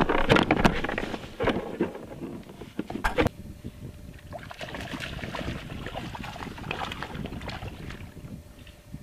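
Irregular knocks and rattles of handling on a Prowler Trident fishing kayak for about the first three seconds, ending in a sharp knock. After that come steady wind on the microphone and soft movement sounds.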